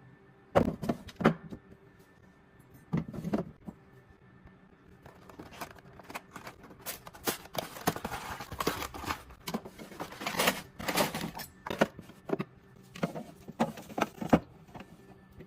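Irregular clicks, knocks and rustling of items being handled and set down, as in restocking and organizing a fridge, with denser rustling in the middle.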